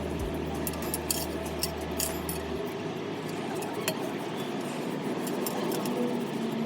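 Light metallic clicks and clinks over a steady rubbing noise from hand-polishing a stainless steel motorcycle muffler.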